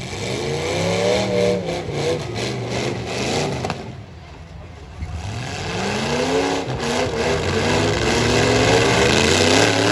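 Full-size stock pickup truck engines revving hard in a demolition derby, climbing in pitch twice, the second run longer and louder.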